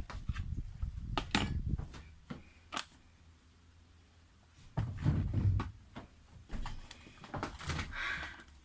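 Scattered clicks, knocks and low thumps of dishes and utensils being handled at a table, with a quieter pause in the middle.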